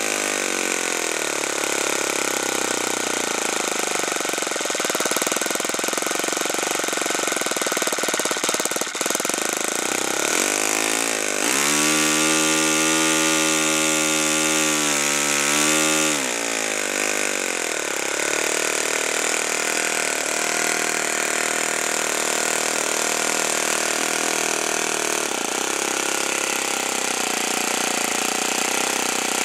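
Saito FA-45 four-stroke glow model airplane engine running, its pitch following the throttle. It drops at first, rises about ten seconds in and holds a higher pitch for a few seconds, then falls back and settles to a steady idle for the second half.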